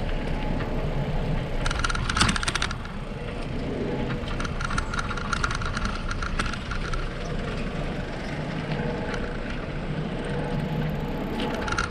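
Bicycle being ridden on a city street: a steady rumble of tyres and wind with bursts of rapid clicking rattle, about two seconds in and again around five to six seconds in.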